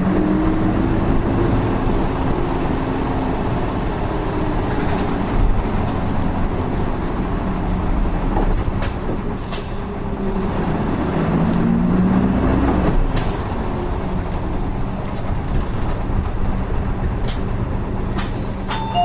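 Hino PKG-RA274MAN city bus heard from inside the cabin as it drives. The engine note rises about eleven seconds in and falls again about two seconds later, with a few light clicks along the way. This bus's engine sounds unlike others of the same type.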